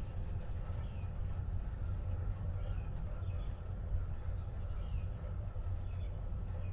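Outdoor ambience of small birds chirping: scattered faint chirps, with three short high-pitched chirps about two, three and a half, and five and a half seconds in. Under them runs a steady low rumble, the loudest part of the sound.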